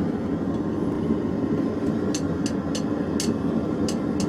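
Forge running with a steady low roar. About halfway through, a quick run of about six sharp hammer blows lands on the hot leaf-spring steel on the anvil as the blade is drawn out.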